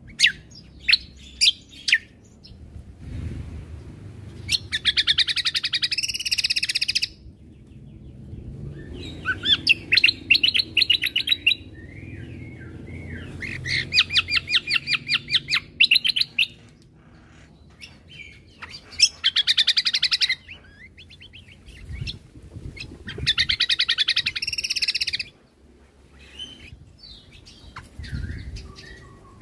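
Cucak kombo (kecial kombo) singing: a few sharp chirps, then five loud bursts of fast rattling note runs, each about two seconds long and coming about every five seconds, the rapid 'shooting' phrases that bird keepers prize.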